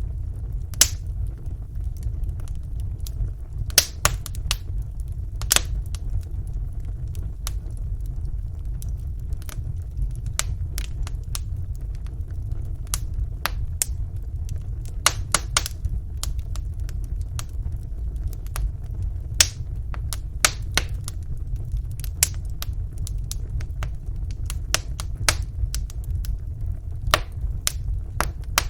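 Wood fire burning in a fireplace: a steady low rumble of flame with small crackles and pops at irregular moments throughout, a few of them sharper and louder than the rest.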